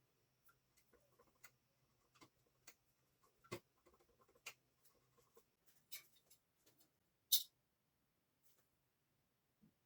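Scattered light clicks and taps, irregular, the loudest a sharp one about seven seconds in, over a faint low hum that fades out about halfway.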